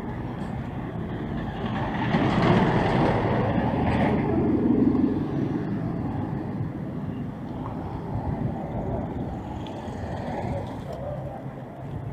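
Street traffic noise, with a motor vehicle passing close by: it grows loudest about two to five seconds in, then fades back to the general traffic rumble.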